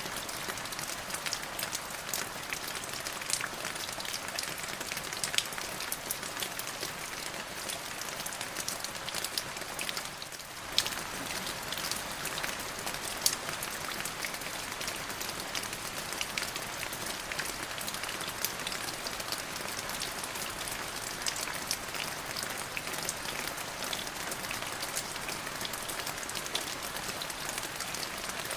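Steady rain falling, with many separate drops ticking sharply on a hard surface; it thins briefly about ten seconds in.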